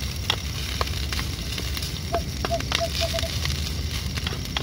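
Fried rice cooking in a pan, with a steady low rumble under scattered crackles and clicks. About two seconds in there is a quick run of about six faint, high chirps.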